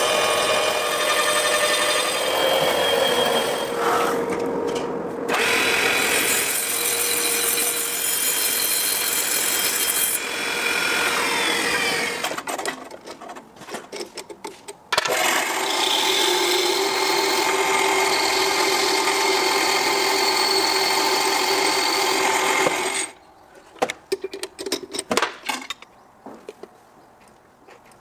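A power tool running in two long spells: it stops about twelve seconds in, starts again a few seconds later and stops again near the end. Scattered knocks and clicks fill the pauses.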